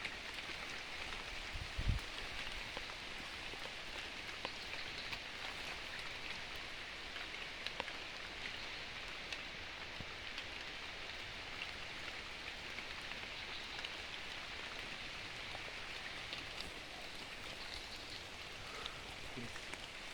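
Steady rain falling, with many small drop ticks throughout and a low thump about two seconds in.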